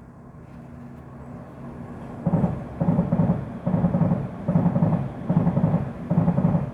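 London Underground train passing slowly beneath a footbridge: a low rumble builds, then from about two seconds in it pulses heavily about once a second as the wheels pass.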